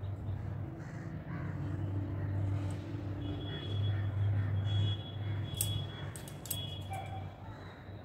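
Outdoor ambience of birds calling over a low steady rumble, with a few light sharp clicks around six to seven seconds in.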